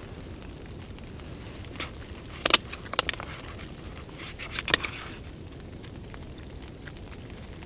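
A spoon scraping and clicking in a food container while eating: short sharp scrapes about two and a half, three and nearly five seconds in, over a steady low hiss.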